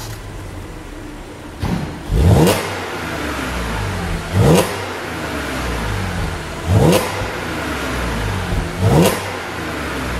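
Audi S5 3.0T supercharged V6 idling through its exhaust and being blipped from idle: a short blip, then four quick revs about two seconds apart, each rising and dropping straight back to idle.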